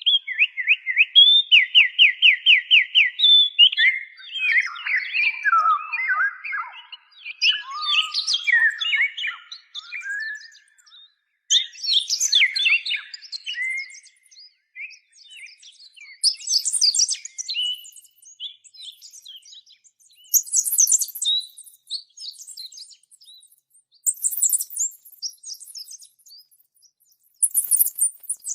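Songbirds singing: a fast, even trill of repeated notes near the start, then varied chirped and whistled phrases that grow higher and thinner later on, coming in short bouts with brief pauses between them.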